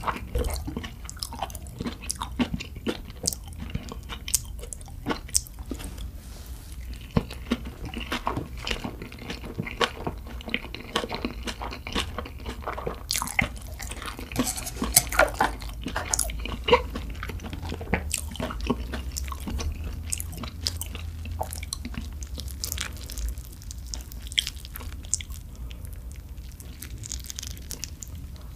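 Close-miked chewing and biting of soft steamed dumplings: a steady run of wet mouth sounds and many small sharp clicks, over a low steady hum.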